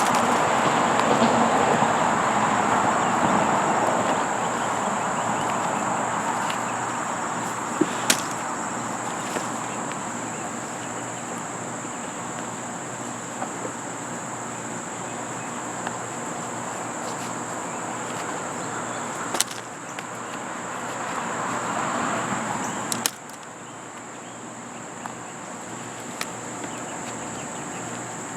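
Insects in a garden giving a steady high-pitched drone. Under it is a broad rushing noise, loud at first, fading, then swelling again before it cuts off suddenly about 23 seconds in. A few sharp clicks fall around 8, 19 and 23 seconds.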